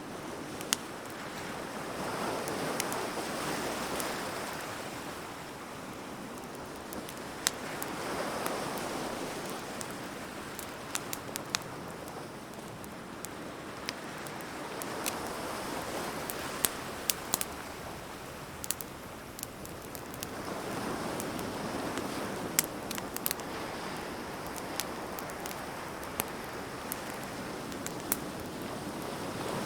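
Wood bonfire crackling with scattered sharp pops and snaps, over ocean surf washing in and out in slow swells every several seconds.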